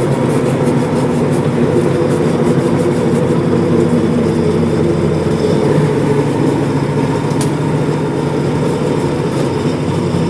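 Fire engine's engine running steadily, heard from inside the cab, with light rattles and one short click about seven seconds in.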